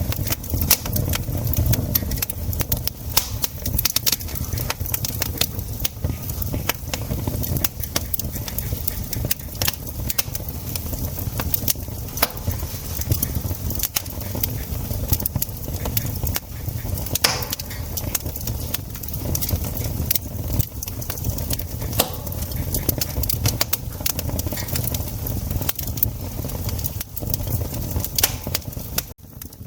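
Campfire crackling, with many sharp pops and snaps over a steady low rumble, briefly quieter near the end.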